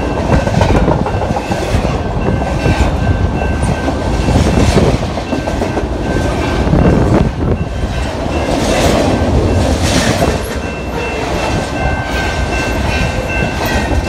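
CN double-stack intermodal container train passing close by: a loud, steady rumble and clatter of the freight cars' wheels on the rails.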